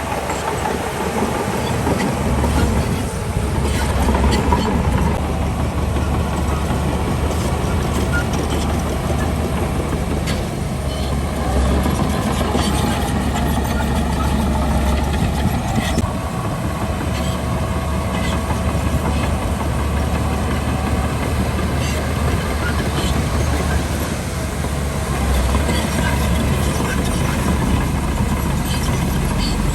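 Crawler bulldozer's diesel engine running steadily under load, with small shifts in its note as it works.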